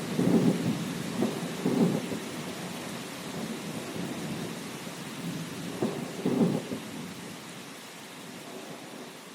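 Thunderstorm: steady rain with rolling thunder that swells in low rumbles near the start and again about six seconds in, then eases off.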